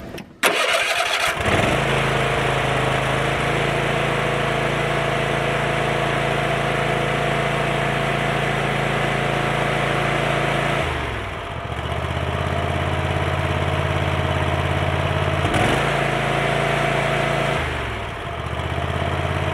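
Kohler 7000 series 24 hp V-twin riding-mower engine starting and then running steadily with the throttle wide open. It is now running on both cylinders after a faulty ignition coil was replaced. The engine note shifts about eleven seconds in and again near the end.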